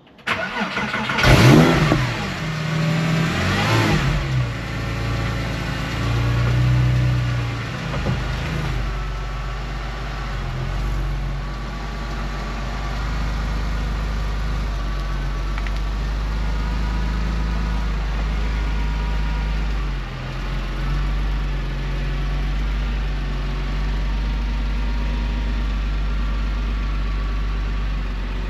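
Porsche 911 997.1's flat-six engine revving sharply twice in the first few seconds, then running steadily at a low, even pitch.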